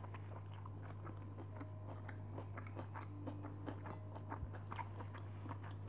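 Close-miked chewing and mouth clicks of a person eating with her hand, with small irregular crunches from food such as fried peanuts, over a steady low hum.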